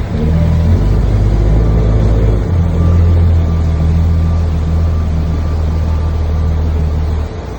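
Sightseeing boat's engine running with a loud, low drone; its note shifts about two and a half seconds in and eases off near the end.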